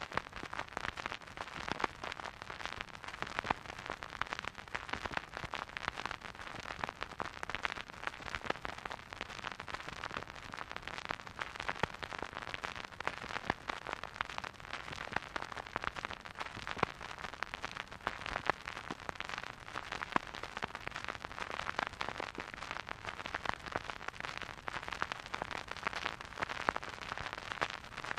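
Record player surface noise: a steady hiss thick with small pops and crackles from the stylus riding a vinyl groove, with no music.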